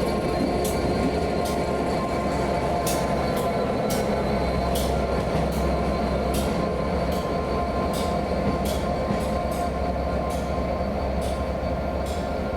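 A train rolling slowly along the track, its wheels clicking over rail joints at an uneven pace, roughly once or twice a second, over a steady low rumble and a faint high whine.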